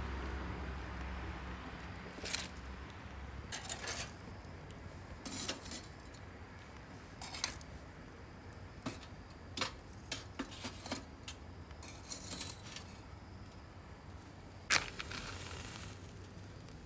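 Light clinks, taps and short rustles of small hard objects being handled, coming irregularly, with one sharper click near the end.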